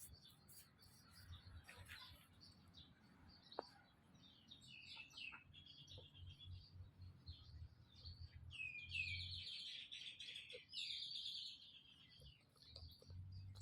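A small animal's high-pitched chirping squeaks, faint at first. A run of short calls, some sweeping down in pitch, begins about a third of the way in and is loudest near the end. A faint low hum lies underneath.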